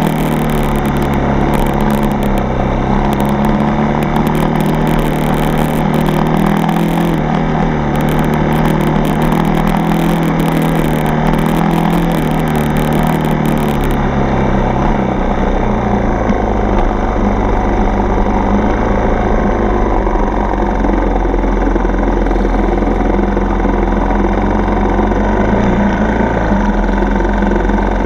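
Dirt bike engine running continuously as it is ridden; about halfway through, the engine note drops to a lower pitch and a high hiss stops.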